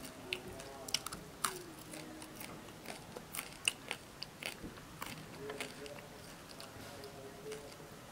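Close-up chewing of grilled frog, with irregular sharp crunches and mouth clicks as the meat and small bones are bitten through.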